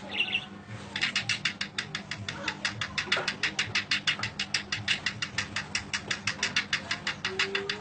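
A bird giving a fast, even run of ticking notes, about eight a second, that starts about a second in and keeps going for several seconds.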